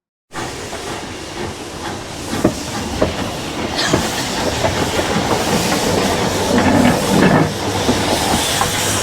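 Heritage steam train running along the line: a steady rushing hiss with scattered clicks and knocks of the wheels over the rails.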